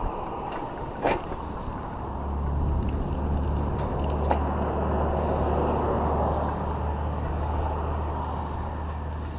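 Rolling noise of a bicycle ride heard from a chest-mounted camera: tyre and wind noise, with two sharp clicks and a steady low hum that sets in about two seconds in.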